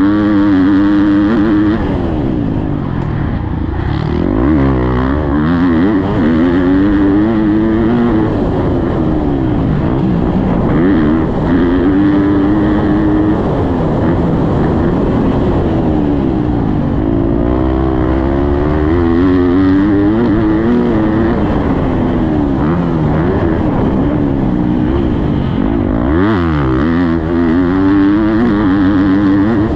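Husqvarna motocross bike's engine being ridden hard around a dirt track. The revs climb and drop every couple of seconds as the throttle opens and shuts through gear changes and corners.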